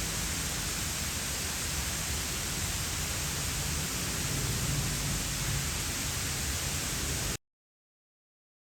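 Steady, even rushing of a waterfall, which cuts off abruptly about seven seconds in to dead silence.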